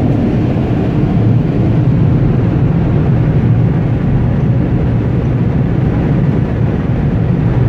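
Car wash air-dryer blowers blasting air over a van: a loud, steady, low rushing noise.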